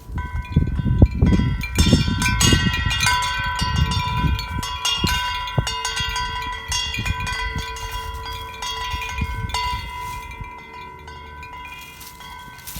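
Metal wind chimes ringing as the wind swings them, with many overlapping tones struck again and again. They are busiest and loudest in the first few seconds and thin out toward the end. Wind gusts rumble on the microphone in the first half.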